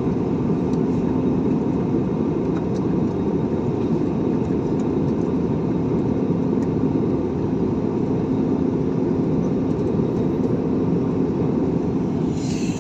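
Steady cabin noise inside a passenger airliner: an even rumble with a low steady hum.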